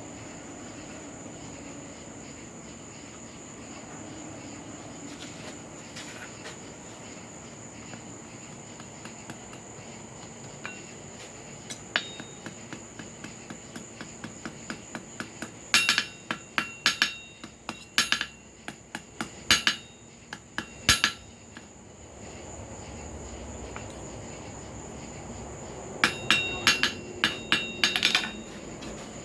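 Hand hammer striking hot steel on an anvil, forging a small hook from a cut flooring nail: light taps building into a run of sharp, ringing blows, a pause of a few seconds, then a second quick run of blows near the end.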